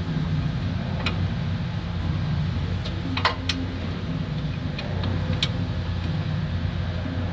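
Scattered sharp metallic clicks and clinks of hand tools working on the wheel hub's mounting bolts, over a steady low hum.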